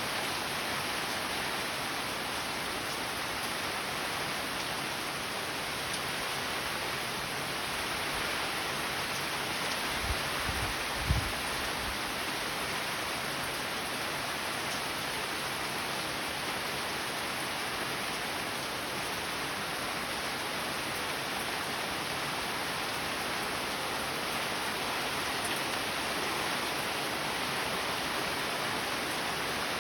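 Steady rain falling, an even hiss with no let-up. A couple of brief low thumps about a third of the way through.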